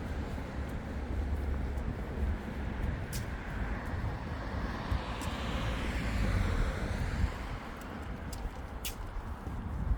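A car passing by: its tyre and engine noise swells to a peak about six seconds in, then fades, over a steady low rumble. A few sharp clicks sound along the way.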